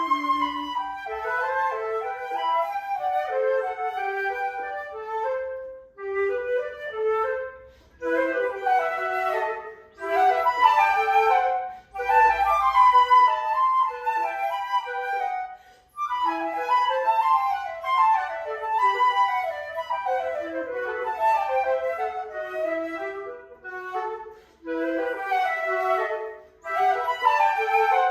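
Flute music: a lively classical piece in quick running notes, phrased in short bursts with brief pauses between phrases every few seconds.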